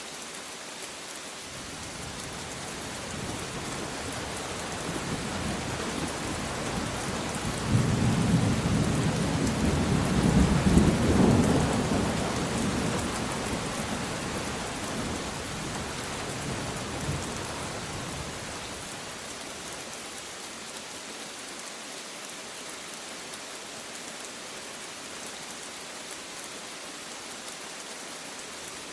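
Steady heavy rain with a long rolling thunderclap that builds from a few seconds in, peaks in the middle and rumbles away over about ten seconds.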